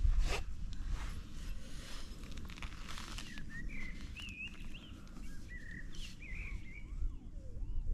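A small bird chirping in short, quick, up-and-down warbling notes, over a steady low rumble of wind on the microphone. A short scrape comes right at the start as soil is worked in the hole.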